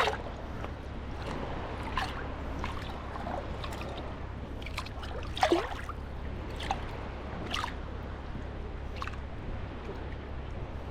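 Small sea waves lapping and sloshing at the shoreline in short, irregular splashes over a steady low rumble. The loudest splashes come at the very start and about five and a half seconds in.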